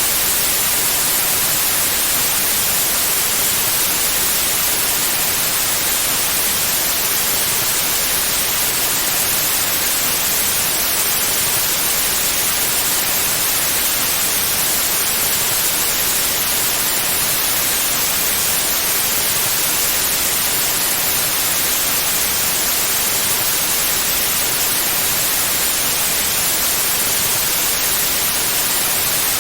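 Pure white noise: a steady, even hiss that does not change.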